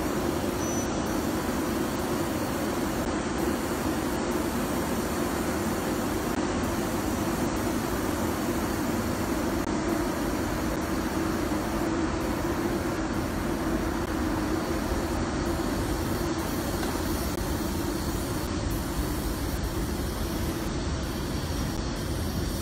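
A pair of Class 90 electric locomotives hauling a container freight train past, with a steady rumble and low hum that hold level throughout.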